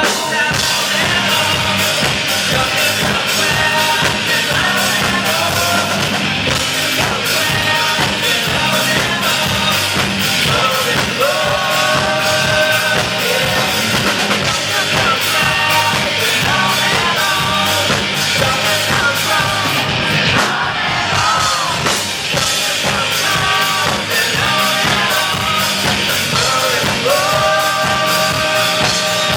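Rock band playing live: a sung vocal line over a driving, steady drum beat, bass and guitars, heard loud through a concert hall's PA. The singer holds long notes partway through and again near the end.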